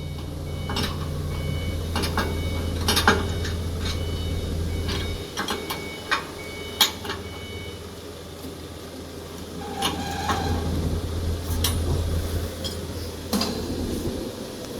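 Steady low machine hum that stops about five seconds in and starts again near ten seconds, with scattered sharp metallic clinks and knocks from parts being handled and fastened.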